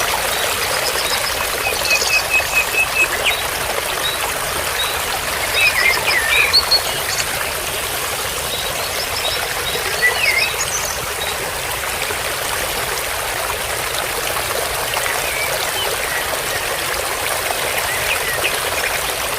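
Steady trickling of running water, with small birds chirping over it: a quick run of about six even notes around two seconds in, and more short chirps around six and ten seconds in.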